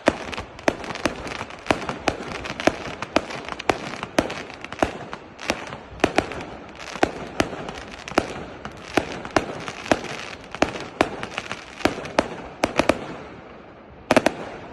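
Fireworks going off in quick succession: sharp bangs several times a second over a steady crackle. They thin out about thirteen seconds in, and one last loud burst comes near the end.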